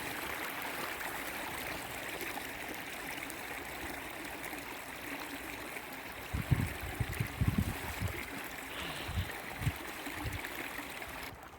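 Shallow creek babbling over rocks in a steady run of water, with a few low thumps from about six seconds in. The level drops suddenly near the end.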